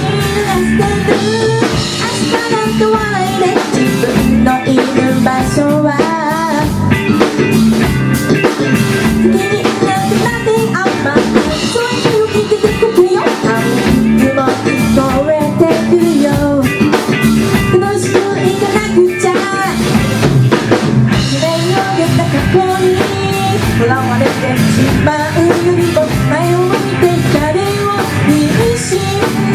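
Live rock band playing: drum kit, guitar and a singing voice.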